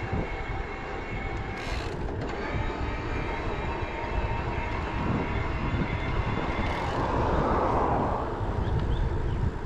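Headwind buffeting the microphone of a moving e-bike, a heavy, uneven rumble. A broad swell of noise rises and fades about seven to eight seconds in, as of a vehicle passing.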